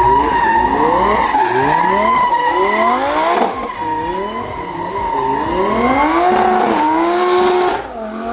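Racing car engine sound effect: the engine revs up again and again, its pitch climbing and dropping back as if through gear changes, over a steady high squeal. It eases off near the end.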